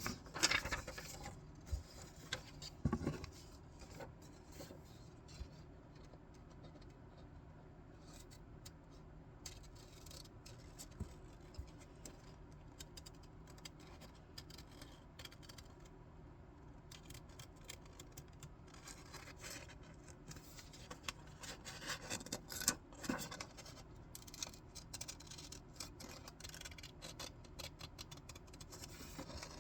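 Scissors cutting paper: scattered snips with paper rustling. The snipping is busier early on and again from about twenty seconds in, and sparse in between.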